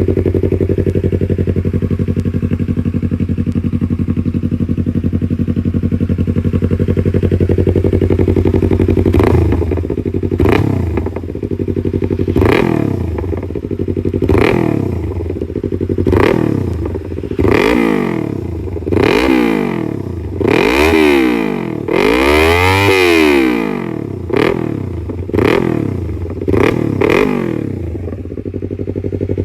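Yamaha R3's parallel-twin engine breathing through an SC Project CRT aftermarket exhaust. It idles steadily for about nine seconds, then is revved in about a dozen short throttle blips, each rising and falling back, the longest and highest near the twenty-third second, before settling to idle again near the end.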